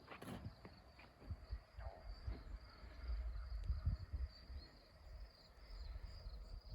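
Insects, crickets or similar, chirring steadily in a high, pulsing drone. A low rumble swells over a few seconds from about a second in and again near the end, with a few soft knocks.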